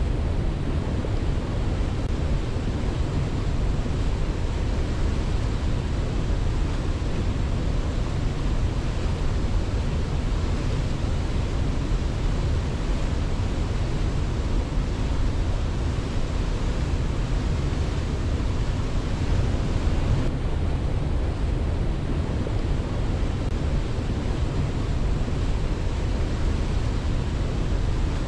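Waterfall: a steady, even rush of water with no breaks or swells, heaviest in the low rumble.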